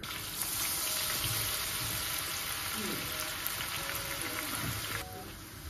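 Soaked soya chunks sizzling as they fry in hot oil in a pan. The sizzle stops suddenly about five seconds in.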